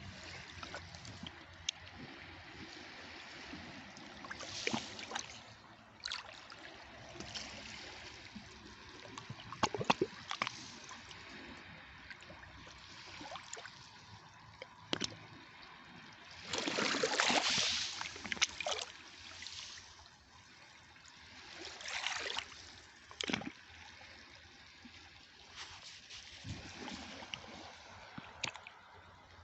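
Seawater lapping and sloshing at the shore in irregular washes, with sharp splashes here and there and one bigger wave surging in about 17 seconds in.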